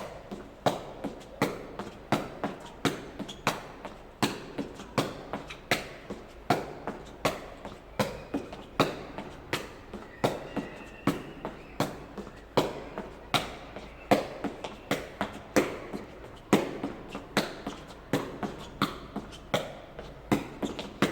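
A jegi (Korean shuttlecock) kicked again and again with the inside of the foot, each kick a short tap, keeping a steady rhythm of about two to three kicks a second.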